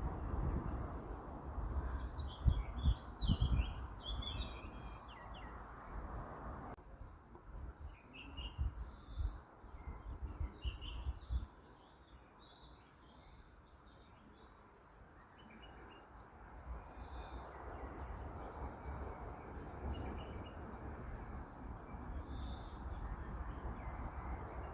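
Small birds chirping and twittering in many short, quick calls, over a low rumbling background noise that fades in the middle and returns toward the end, with a few low thumps in the first few seconds.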